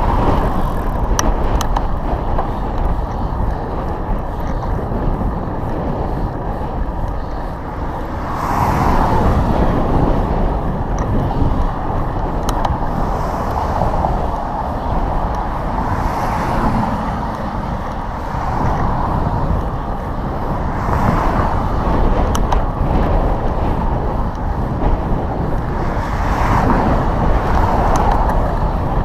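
Wind rushing over the microphone with road traffic, several vehicles swelling past one after another.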